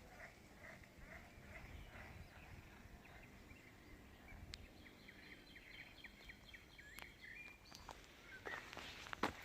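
Faint bird calls: a quick run of short, repeated chirps, a few each second, with a few sharp crackles near the end.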